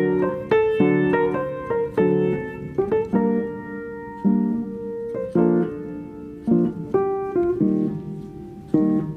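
Calm solo piano music: slow chords and melody notes struck one after another, each ringing out and fading.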